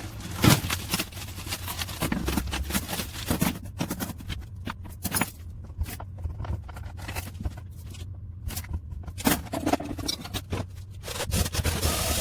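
Brake pipe being pulled through a tight 5 mm drilled hole to straighten it: a run of irregular scrapes and clicks as the pipe drags through the hole.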